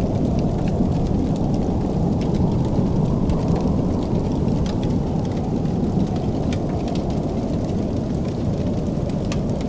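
Fireplace fire burning with a steady low roar and scattered sharp crackles and pops.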